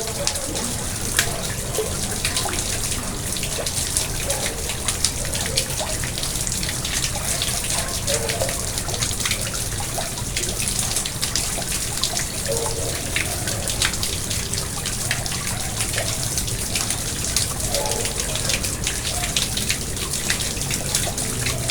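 Water in a garden pond trickling and splashing steadily, with many small drips and splashes.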